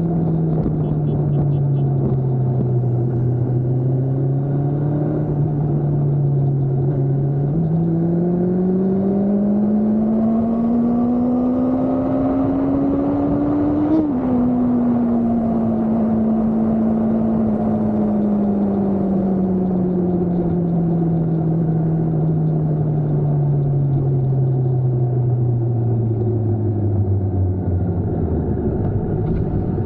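Motorcycle engine running at steady loudness, its pitch climbing slowly for several seconds, dropping sharply about halfway through, then falling slowly as it slows down.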